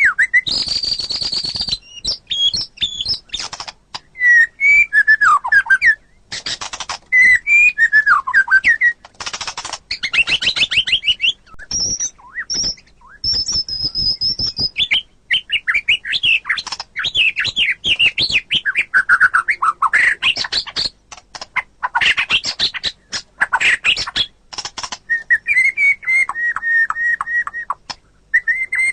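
White-rumped shama (murai batu) singing a long, varied song: sweeping whistled phrases, fast runs of repeated notes and a few harsh rasping notes, broken by short pauses.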